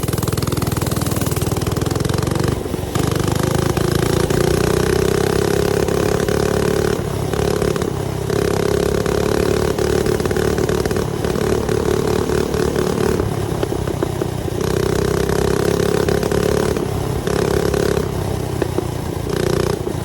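Mini bike engine running under throttle while riding, its pitch rising a little in the first few seconds and dipping briefly about eight times as the throttle is let off and reopened.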